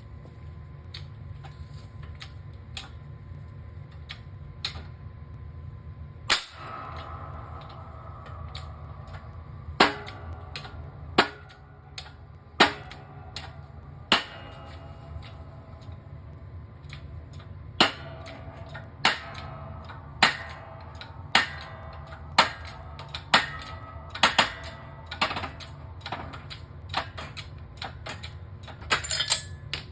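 Hammer blows on metal while working a boogie wheel bearing: about twenty sharp strikes at irregular spacing, several ringing briefly, coming faster near the end. A steady low hum runs underneath.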